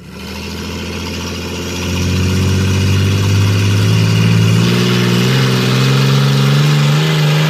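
Monster truck engine running hard, its pitch climbing slowly as it revs up and growing louder about two seconds in.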